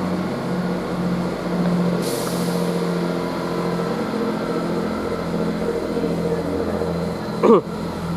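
Great Western Railway Class 165 diesel multiple unit's underfloor diesel engines running at the platform, making a racket as a steady drone. There is a short hiss of air about two seconds in, and a brief loud rising tone near the end.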